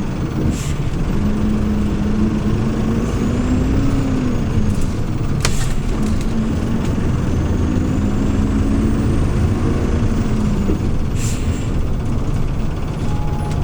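Hyundai New Super Aerocity CNG city bus engine running under way, heard from inside the bus, its note rising and falling several times as the bus changes speed. Brief hisses about half a second in and again near the end, and a sharp click midway.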